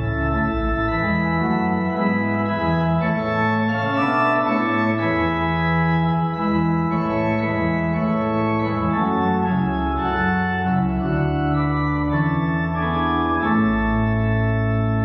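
Organ playing held chords, with the bass notes moving every second or so.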